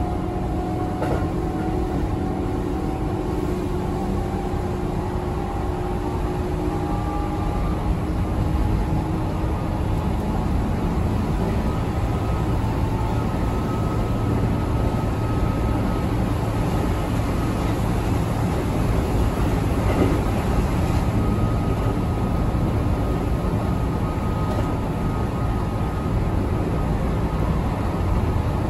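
Keihan 8000 series electric train running at speed, heard from inside the front car: a steady rumble of wheels on rail. Faint steady tones sit on top: a low one in the first few seconds and a higher one from about halfway through.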